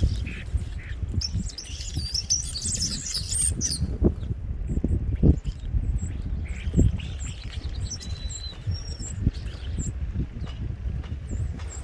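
Small songbirds at a feeder: a quick burst of twittering chirps, then a string of short, high single chirps and a couple of brief whistled notes. Under them is a low steady rumble with a few dull thumps.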